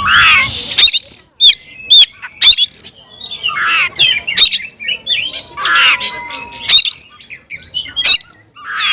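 Oriental magpie-robin (kacer) singing loudly: quick phrases of varied whistled notes mixed with sharp clicks, broken by short pauses.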